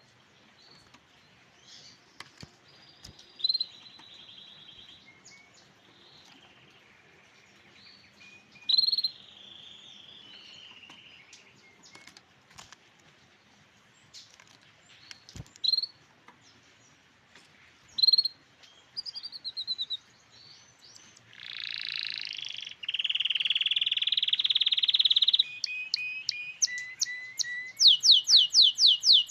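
Canary singing: phrases of varied trills and rolls separated by short pauses, building to a long, loud rolling trill about two-thirds of the way through and a fast run of quickly repeated sweeping notes near the end.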